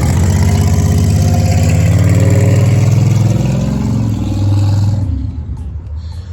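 A motor vehicle's engine running and pulling, its pitch climbing a little then easing, before it drops away suddenly about five seconds in.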